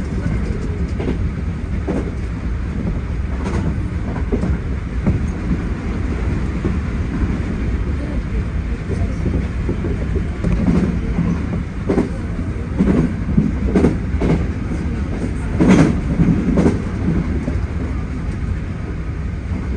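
Hankyu 1300 series electric train running at speed, heard from the driver's cab: a steady low rumble of wheels on rail, with clusters of sharp clacks as the wheels pass over rail joints.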